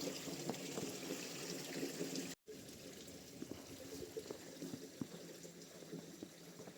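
Water running and trickling steadily, which cuts off abruptly a little over two seconds in; after that, quieter ambience with scattered short crunching footsteps.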